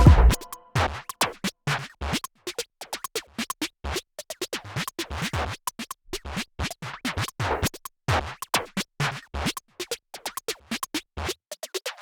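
Quick, irregular scratching strokes of a pen or pencil drawing on paper, in short dashes of varying length with no steady rhythm.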